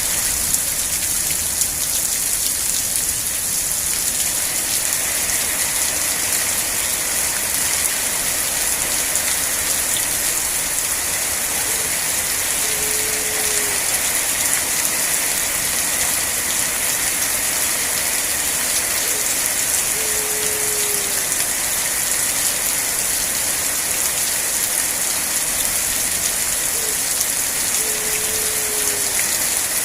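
Steady, heavy rain falling, a dense unbroken hiss. A short low call, about a second long and dropping in pitch at its end, sounds three times through the rain, roughly seven seconds apart.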